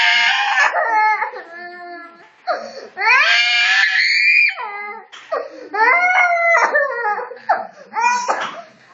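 A young child crying and wailing in a fussy fit, a series of long, loud, drawn-out wails with short breaks between them.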